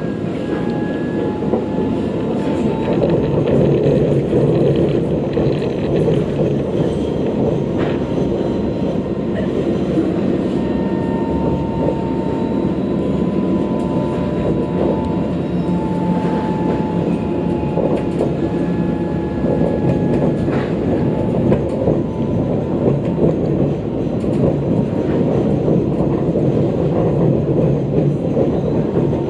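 Sydney light rail tram running, heard from inside the carriage: a steady low rumble with a thin wavering whine and a few faint clicks.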